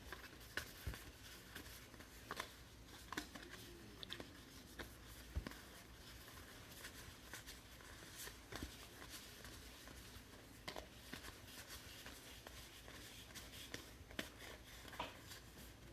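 Trading cards being handled and flipped through by hand: faint, irregular clicks and light rustles of card stock.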